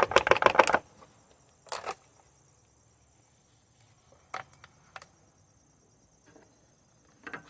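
Scattered light clicks and knocks from handling engine-oil bottles and a funnel, with a short rustle about two seconds in.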